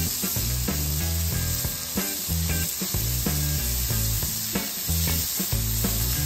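Brisket burger patties and thinly sliced raw ribeye sizzling on a hot Blackstone flat-top griddle, a steady frying hiss. Background music with a low, regular beat plays underneath.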